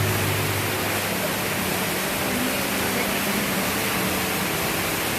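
Ruby Falls underground waterfall: a steady, unbroken rush of falling water.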